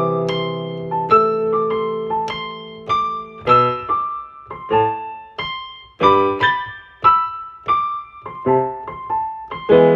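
Solo piano music: sustained chords and single struck notes, each fading away after it is played.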